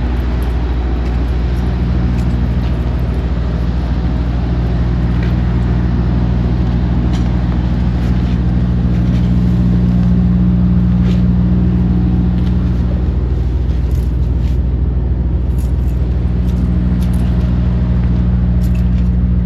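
A vehicle engine running steadily at a constant low speed, with no revving. A few faint light clicks are heard over it.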